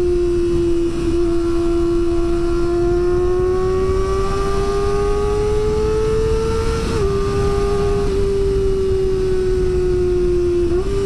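Kawasaki ZX-25R's 250 cc inline-four running at high revs, its pitch climbing slowly, dropping sharply at a gear change about seven seconds in, easing off, then jumping up again near the end. A low wind rush sits under it.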